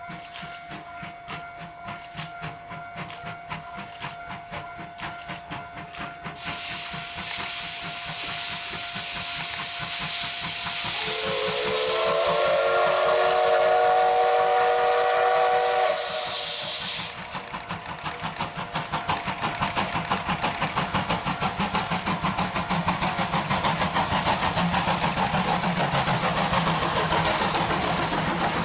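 C12 66 steam locomotive venting steam with a loud hiss. In the middle it sounds one long whistle blast that bends slightly in pitch. Just after, the hiss cuts off abruptly, and quick, even beats of the moving train follow.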